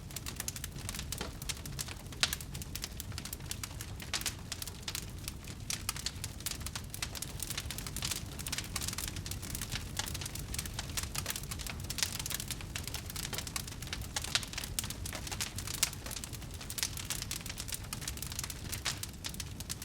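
Wood fire in a fireplace crackling, with many small irregular pops and snaps over a low steady rumble of the flames.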